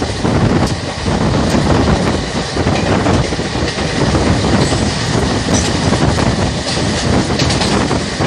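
Indian Railways passenger coach running at speed: wheels rumbling on the rails, with a clickety-clack of the wheels over the rail joints.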